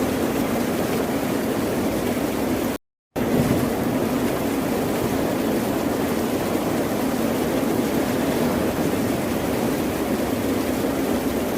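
Ocean surf as a steady wash of noise, with no distinct swells. It cuts out to complete silence for a fraction of a second about three seconds in.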